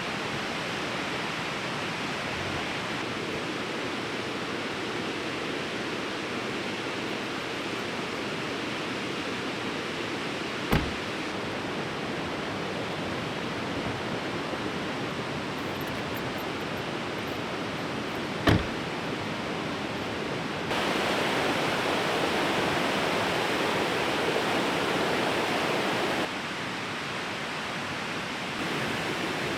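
Fast-flowing river rushing steadily, louder for about five seconds past the middle. Two sharp clicks cut in, about eight seconds apart.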